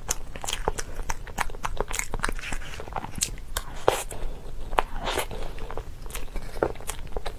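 Close-up crunchy chewing: crisp food being bitten and crunched in quick, irregular sharp cracks, several a second.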